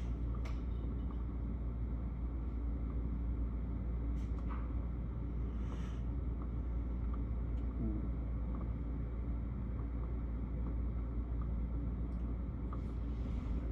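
Steady low rumble of room and outdoor ambience heard from indoors, with a few faint scattered ticks.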